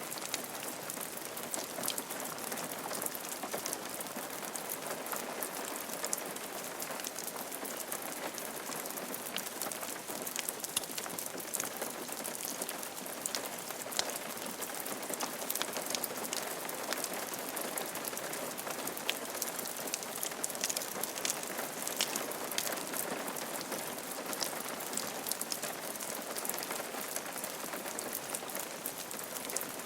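Steady rain falling on a roof, with many individual drops ticking sharply over an even hiss.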